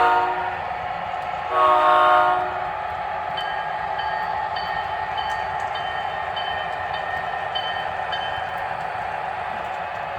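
O scale model train's onboard sound system blowing a locomotive horn chord twice: the first blast ends just as the sound begins, the second runs about two seconds in. Then a high repeating ding, about twice a second for several seconds, over the steady running sound of the train.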